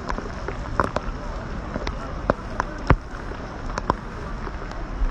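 Outdoor crowd ambience: indistinct voices over a steady hiss, with scattered sharp clicks and knocks.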